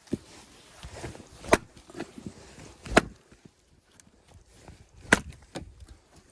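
Axe chopping firewood: three sharp strikes on wood, about one and a half to two seconds apart, with smaller knocks and shuffling between them.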